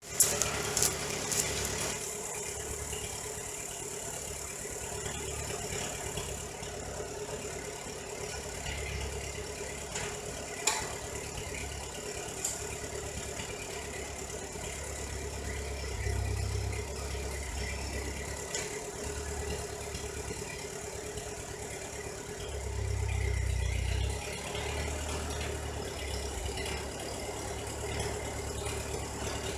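Engine idling steadily with a rattle, swelling louder twice in the second half.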